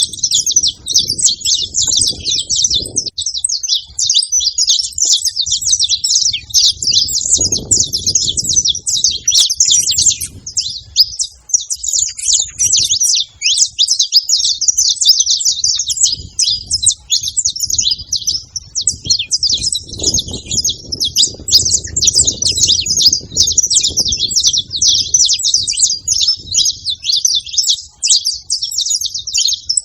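Saffron finches singing without a pause, a dense, overlapping chorus of high, rapid chirping song, with a faint low rumble coming and going underneath.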